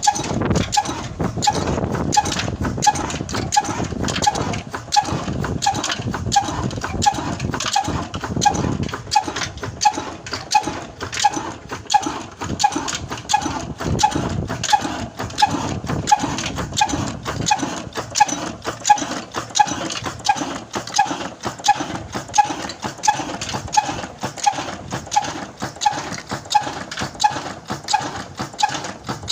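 Old Ruston Hornsby stationary diesel engine running at a slow, even beat, with a sharp clack about twice a second over a low rumble.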